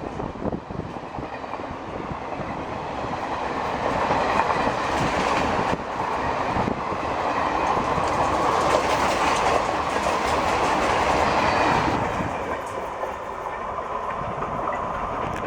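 Express train passing at speed, its wheels clattering over the rails. The sound builds over the first few seconds, is loudest through the middle, and eases off about twelve seconds in.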